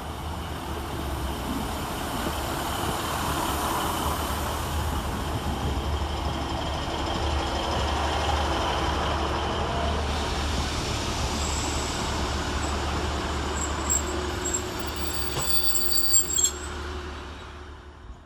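Train running at a station platform, its rumble building over the first few seconds over a steady low drone. High-pitched squeals join in past the middle and stop abruptly shortly before the end, then the noise fades.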